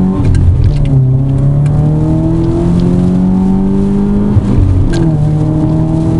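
Subaru Impreza's EJ25 flat-four engine under hard acceleration, its note climbing steadily. About four and a half seconds in, the note breaks off for a gear change and comes back lower, then climbs again.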